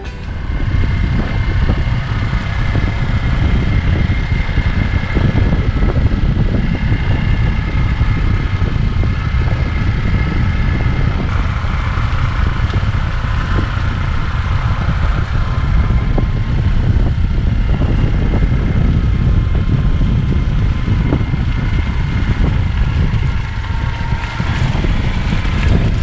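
Motorbike on the move: engine running steadily under heavy, rumbling wind noise on the camera microphone.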